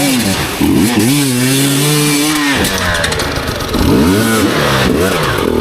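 Two-stroke enduro dirt bike engine revving, its pitch rising and falling over and over as the throttle is worked, with a brief drop about two and a half seconds in.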